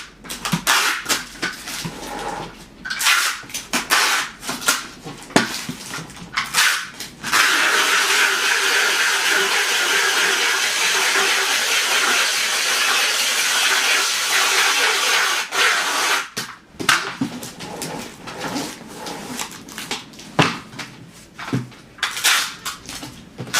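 Packing and handling noises: irregular knocks, clicks and rustles, broken by a steady hiss lasting about eight seconds in the middle.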